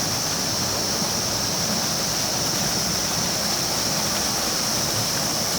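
A river rushing steadily, an even noise of flowing water with a high hiss over it.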